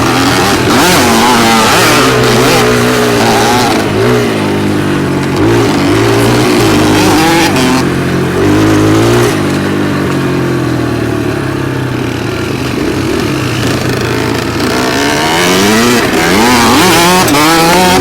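Dirt bike engine running under way, its note rising and falling over and over as the rider works the throttle.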